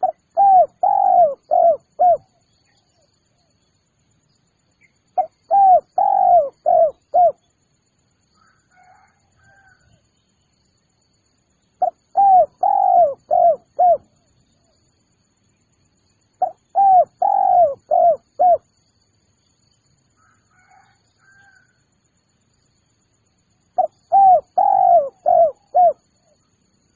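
Spotted dove (tekukur) cooing: five phrases of about five coos each, one every five to seven seconds. Faint small-bird chirps can be heard between the phrases.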